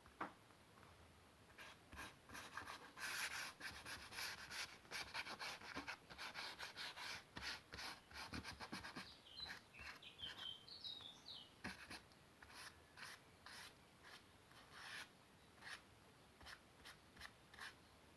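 Pen nib scratching on paper in quick, irregular strokes, drawing with Indian ink. A short run of high chirping notes comes about ten seconds in.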